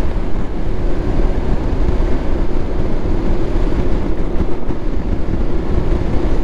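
Motorcycle riding at steady speed: engine and road noise under a heavy, flickering low rumble of wind on the microphone.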